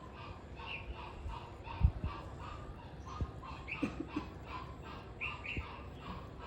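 Red-whiskered bulbul calling over and over, short chirps at about three a second. A few low thumps, the loudest about two seconds in.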